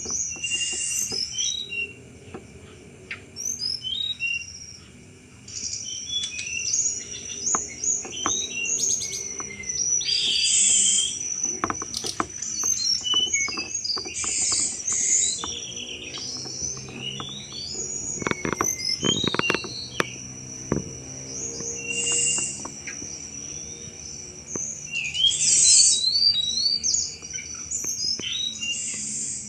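Hill blue flycatcher (tledekan gunung) singing busily, short varied phrases of chattering, clicking notes repeated every second or two, over a steady high insect drone.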